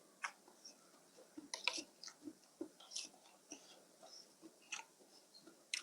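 Close-up chewing and mouth sounds of a person eating rice noodles in fish curry with fish balls: irregular wet smacks and clicks, a few a second.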